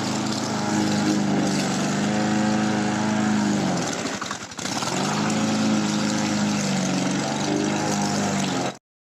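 Small engine of a grass-cutting machine running fast and steady. About four seconds in it eases off, dropping in pitch, then speeds back up. The sound cuts off abruptly just before the end.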